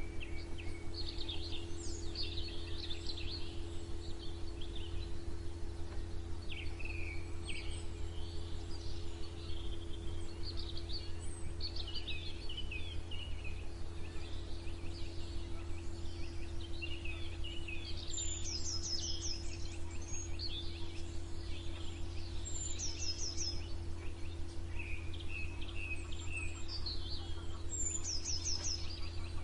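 Several songbirds singing and chirping over a steady low hum. In the second half one bird gives a quick run of high notes falling in pitch, three times.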